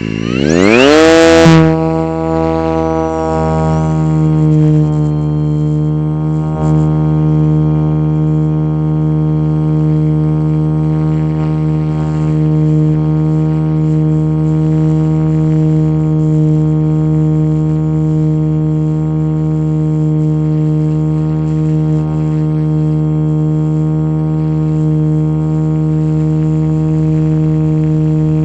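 Motion RC Jet Ranger model helicopter spooling up. A fast rising whine in the first second and a half settles into a steady drone at constant pitch.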